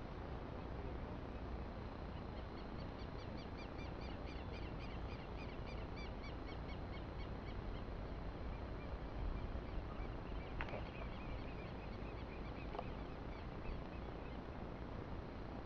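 A bird calling in a fast run of short, repeated chirps for several seconds over a steady low outdoor rumble; two sharp clicks come near the end.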